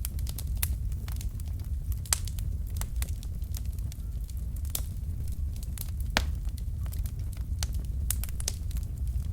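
Wood fire burning in a fireplace: logs crackling and popping in sharp, irregular snaps over a steady low rumble of the flames, with a louder pop about two seconds in and another about six seconds in.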